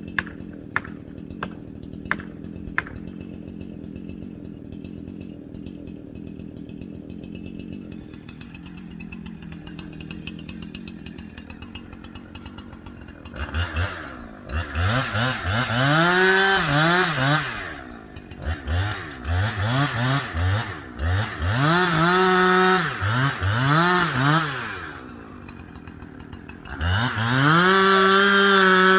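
Two-stroke chainsaw idling low and steady, then revved up and down in a string of throttle blips from about halfway through. It rises to a steady full-throttle run near the end. A few sharp clicks sound in the first seconds.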